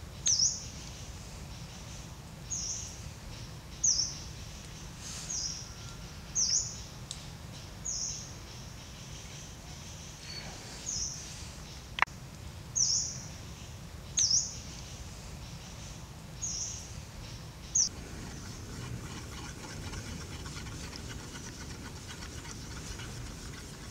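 A bird chirping again and again, one short high falling note every second or so, over a low steady forest background; the chirps stop about three-quarters of the way through. A single sharp click sounds near the middle.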